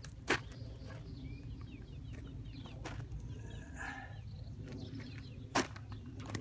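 Two sharp knocks, one just after the start and one near the end, over a steady low rumble, with birds chirping and calling in the background.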